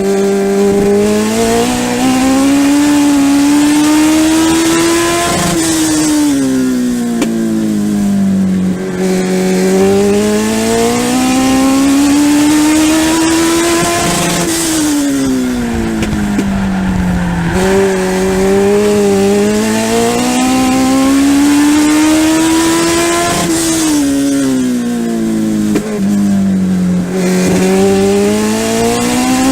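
Legend race car's Yamaha motorcycle four-cylinder engine at racing speed, heard from on board. The revs climb along each straight and fall away into each turn, a rise-and-fall that repeats about every nine seconds, three times.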